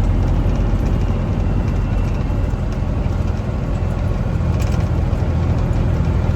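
Diesel engine of a 2002 Peterbilt 387 semi truck running steadily at low speed, a constant low drone.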